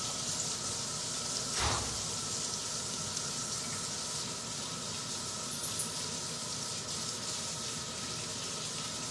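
Grated-zucchini fritters frying in bacon grease in a nonstick skillet, with a steady sizzle. A single soft knock comes about a second and a half in.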